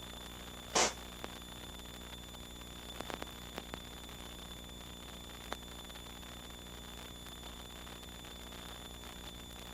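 Steady hiss and hum on an aircraft radio/intercom audio feed between transmissions, with a thin high steady tone. A short burst of static comes about a second in, and a few faint clicks follow later.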